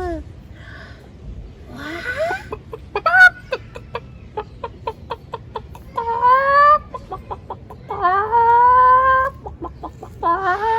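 Chicken clucking: a run of quick short clucks, then two longer rising squawks about six and eight seconds in.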